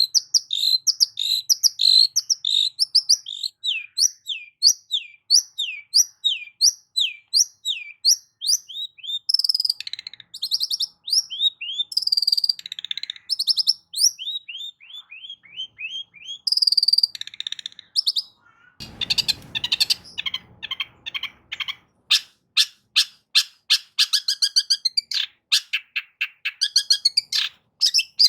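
Long-tailed shrike (cendet) singing: a long run of quick, falling whistled notes, about three a second, then a short harsh grating burst about two-thirds of the way through, followed by fast clicking notes and trills.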